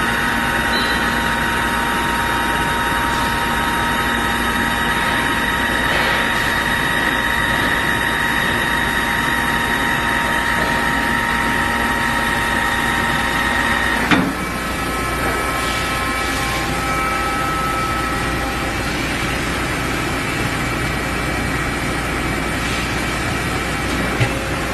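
Friction welding machine running with a steady whine made of several held tones over a low hum. About halfway through there is a sharp knock, and the whine shifts to a different set of pitches.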